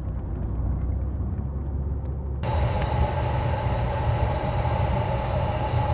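Caterpillar 3406B inline-six diesel truck running on the road, a low rumble heard from inside the cab. About two and a half seconds in it cuts abruptly to a different, steady machine hum with a higher tone in it.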